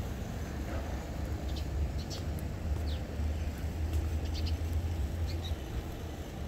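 Small birds giving short, high chirps every second or so over a steady low city rumble.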